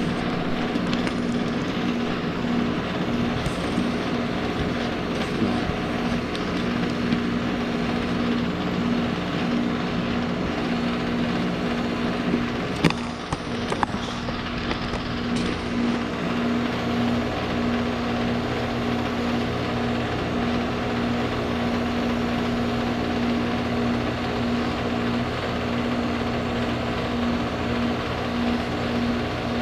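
Outdoor heat pump units running steadily: a compressor hum with a pulsing tone over fan noise. There is a sharp click about 13 seconds in.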